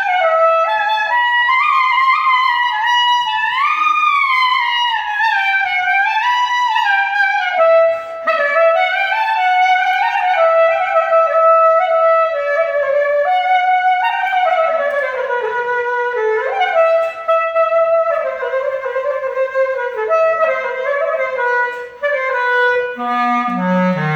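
A single-reed wind instrument played through a repaired plastic Bon mouthpiece that has been re-faced and tuned: a flowing solo melody with sliding pitch bends and quick ornamented runs.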